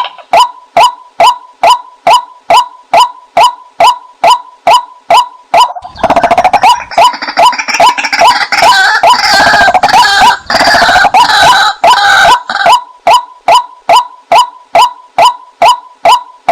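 Female white-breasted waterhen calling: a short, loud note repeated about two and a half times a second, used as a decoy call to lure waterhens. From about six seconds in, a denser, harsher chattering joins for about six seconds, then the single repeated note carries on alone.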